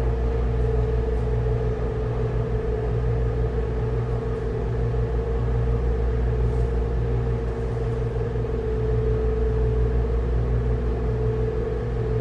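Steady low mechanical hum and rumble with a held mid-pitched tone, unchanging throughout.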